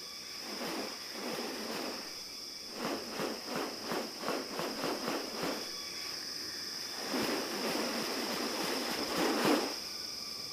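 Rainforest ambience: insects droning steadily on one high note. Over it comes a run of quick rustling clicks, about three a second, a few seconds in, then a longer, louder rustling burst near the end.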